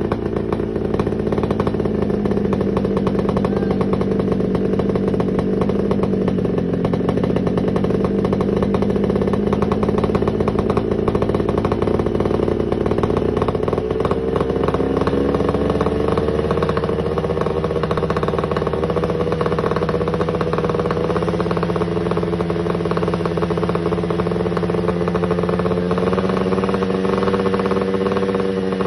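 Yamaha RX-King 135cc two-stroke single-cylinder motorcycle engine running steadily near idle, its exhaust tuned for a deep 'ngorok' (snoring) note. The engine speed wanders a little, dipping and then rising slightly about halfway through.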